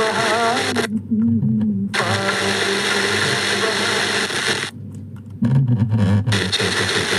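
Music with a singing voice played through a speaker driven by the home theatre's amplifier board under test, with a steady hiss behind it. It cuts out briefly twice, about a second in and again near five seconds.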